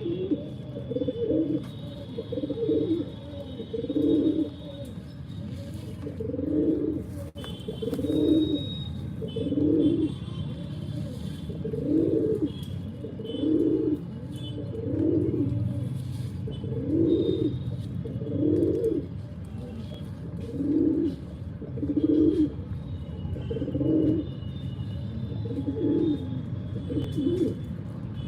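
Pigeons cooing: short, low coos repeated about once every one and a half to two seconds, with faint chirping from small birds and a steady low hum beneath.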